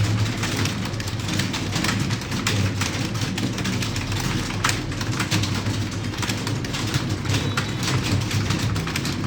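Computer keyboards being typed on rapidly by several typists at once, a dense irregular clatter of key clicks over a steady low hum.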